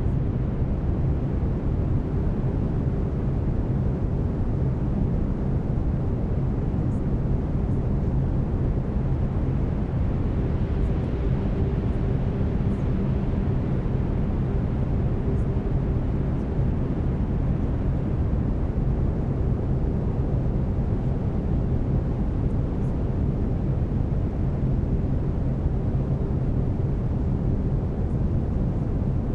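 Brown noise: a steady, even rushing heaviest in the low end, with faint steady low tones from binaural beats running underneath.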